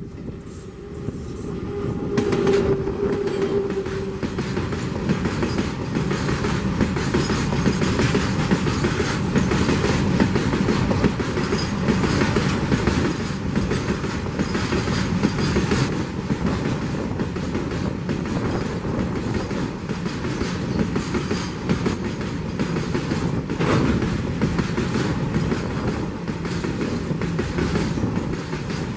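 WAG-9 electric locomotive hauling a BOXN open-wagon freight train passes at speed, followed by the loud rumble of the wagons rolling by and the rhythmic clickety-clack of their wheels over the rail joints.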